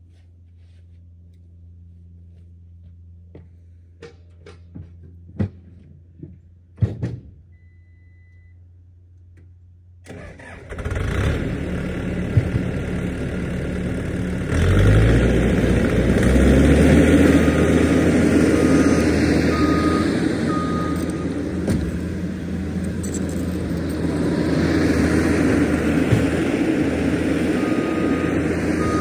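A few clicks and a short beep, then a heavy-equipment diesel engine starts about ten seconds in, rises in speed a few seconds later and settles into steady running, with short repeated electronic beeps over it.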